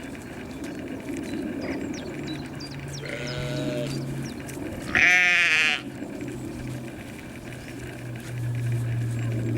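An animal calling: a faint short call about three seconds in, then a loud quavering call lasting under a second about five seconds in, over a low steady drone.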